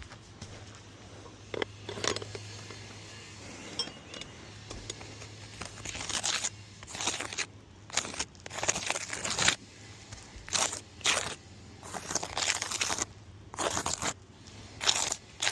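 Asphalt roof shingles being pried up and pulled loose: a run of short scraping, tearing noises that starts about six seconds in.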